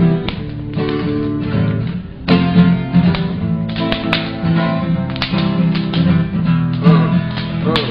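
Acoustic guitar strumming chords in a steady rhythm: the instrumental intro before the song's vocals come in.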